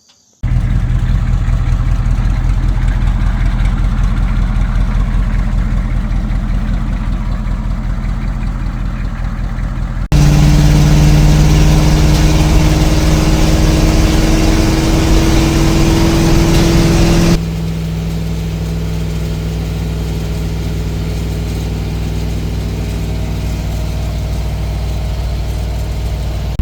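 Chevrolet K5 Blazer's old 6.2 V8 running through a scrapyard Magnaflow muffler on open headers, not yet welded in. It starts with a steady run. About ten seconds in it turns abruptly louder, with a steady tone slowly rising in pitch as the engine is held at higher revs. Around seventeen seconds in it drops back to a steadier, quieter run.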